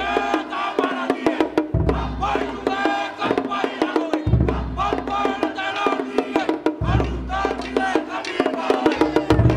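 Pacific Island drumming: fast, sharp wooden log-drum strokes over a deep bass drum beat that lands about every two and a half seconds, with voices singing over the rhythm.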